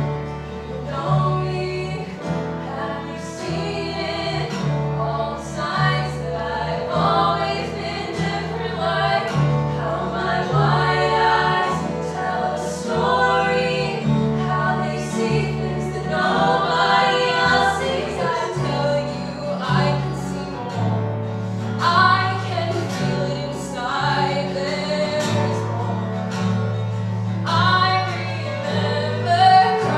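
Music: a group of voices singing together over instrumental accompaniment, with a steady pulsing bass line.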